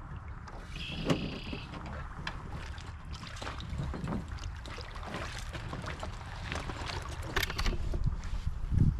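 Swift canoe being paddled: paddle strokes in the water with repeated small knocks and clicks against the hull. A short high tone sounds about a second in.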